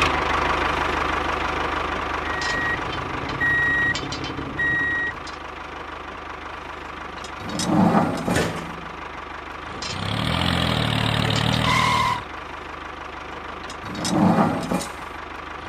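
A vehicle engine running steadily, with three short reversing beeps about a second apart early on. Later come two brief louder bursts and a louder two-second stretch of engine sound.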